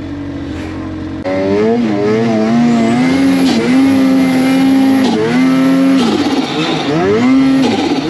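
Engines running at high revs, their pitch rising and falling again and again as the throttle is worked. They get suddenly louder about a second in.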